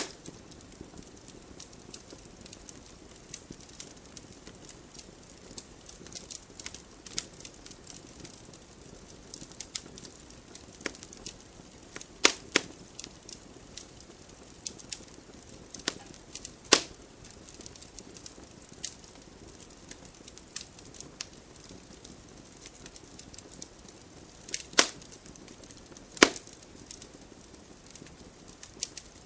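Wood fire burning in a fireplace, crackling with frequent small snaps over a faint hiss, and four louder pops spread through.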